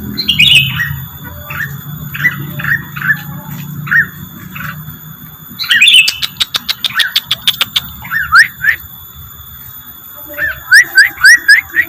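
Rengganis bird song used as a lure call: short upward-sweeping chirps repeated in quick runs. Rapid trains of sharp clicks come in about six seconds in, and a loud burst of rising notes comes near the end.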